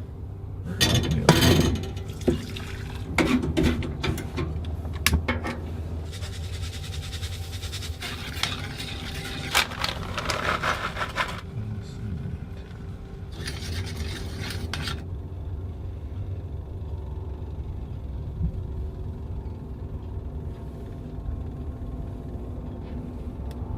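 Dishes and a spoon clinking and scraping, stirring in a cup, for the first few seconds, then two stretches of hissing, over a steady low hum.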